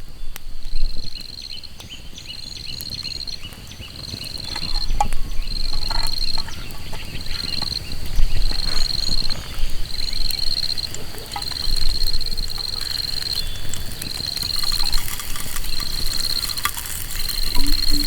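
An insect calling in repeated high trills, about one trill a second, over a low rumble with scattered soft taps.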